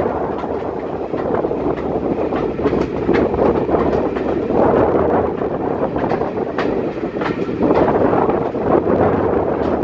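Train of Mk1 passenger coaches running along the line: a steady rumble of wheels on track, with irregular sharp clicks and knocks.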